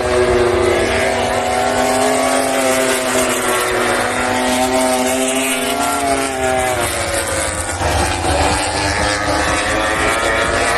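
MotoGP racing motorcycles, 1000 cc four-stroke prototypes, at high revs going past on the circuit, several overlapping in turn, the engine pitch rising through the gears and dropping as each goes by.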